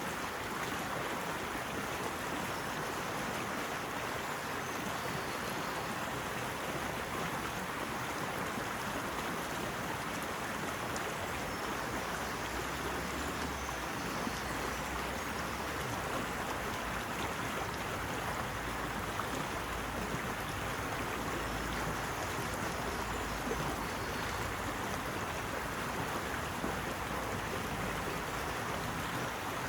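Steady rushing of flowing water, an even wash of sound with no breaks. A low rumble comes in underneath about twelve seconds in and continues.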